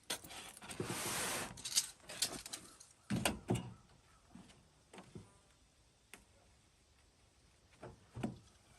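Handling noises while working with foam board and hand tools: a scraping rub lasting about a second near the start, then scattered knocks and taps, with a couple of duller thuds.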